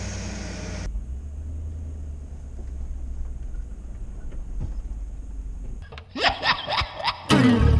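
A vehicle engine, likely the camping truck's, idling with a steady low hum. Near the end, a few rising sweeps lead into loud music.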